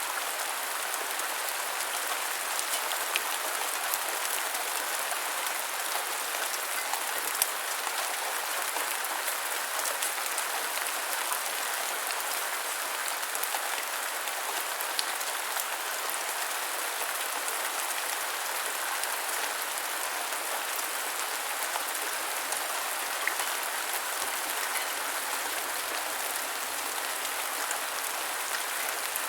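Steady gentle rain falling on a surface, an even hiss with scattered sharper drop clicks now and then.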